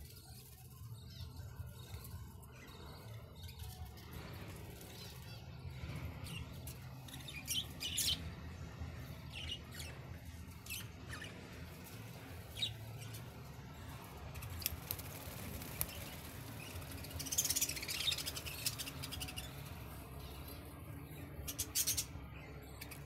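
Pet budgerigars giving short, scattered chirps, with a busier flurry of chirping about three quarters of the way through. A steady low hum runs underneath.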